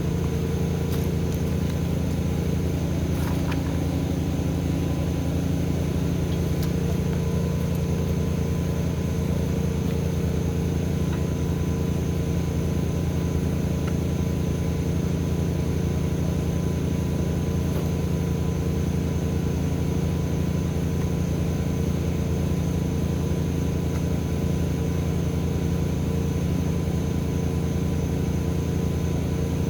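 Engine running steadily at an even speed, a constant hum with no change in pitch or level.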